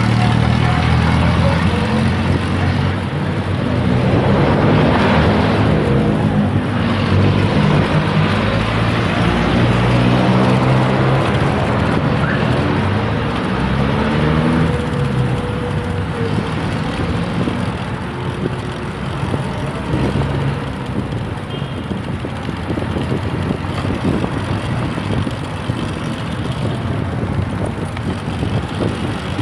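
Road traffic: cars driving past with engine and tyre noise, their engine tones rising and falling as they go by.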